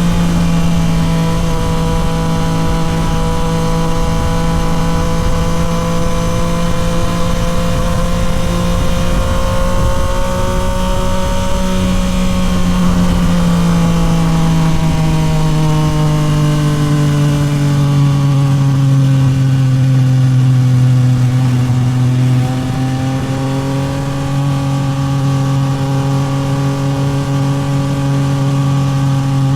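Yamaha MT-09 SP's 890 cc inline three-cylinder engine running through a Toce full exhaust while riding, held at a fairly steady engine speed. The pitch eases slowly lower over the second half, with a short drop in level about two-thirds of the way through.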